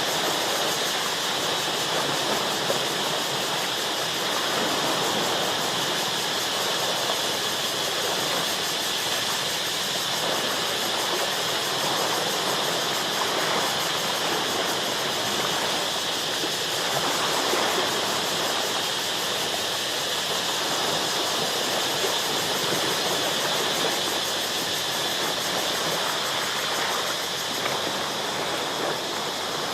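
Ocean waves washing against shoreline rocks, an even, steady rush of water with no single big crash standing out, and a steady high-pitched hum running underneath.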